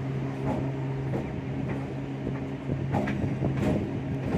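Train wheels clacking over rail joints and points at low speed, the clacks coming irregularly about every half second to a second, over a steady hum that stops about two-thirds of the way through.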